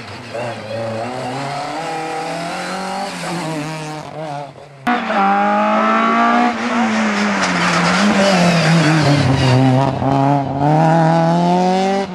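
VW Golf Mk2 rally car's engine under hard acceleration, the revs climbing and dropping again and again. There is a sudden jump in loudness about five seconds in, and a long dip and rise in revs in the second half.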